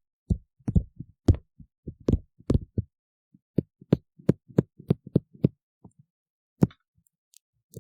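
Ear-cleaning tool scraping and tapping inside a silicone ear model: a quick, irregular run of soft knocks and crackles, then a short pause and one more loud knock near the end.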